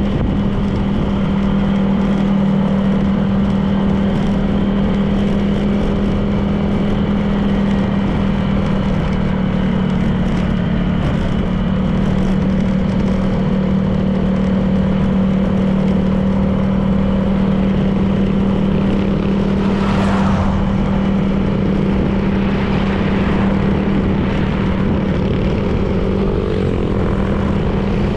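Honda PCX 160 scooter's single-cylinder engine running at a steady cruising speed, with road and wind noise. About twenty seconds in, a brief rush of noise sweeps through.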